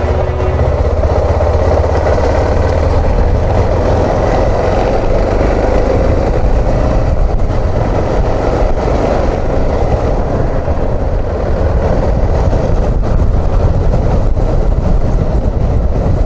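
Suzuki XF650 Freewind's single-cylinder engine running steadily as the motorcycle rides along, with road noise on the camera's microphone.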